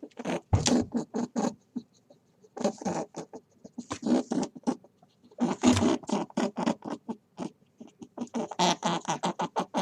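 An animal giving rapid runs of short, clipped calls in about half a dozen bursts, each burst a quick string of pulses.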